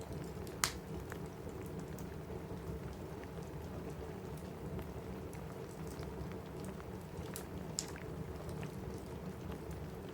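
Steady rain on a cabin roof, with sharp pops and small ticks from a crackling wood fire scattered through it; the loudest pops come about half a second in and again about eight seconds in.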